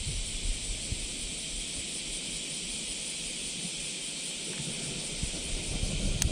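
Chorus of cicadas, a constant high hiss, with a low rumble of wind on the microphone and a sharp click near the end.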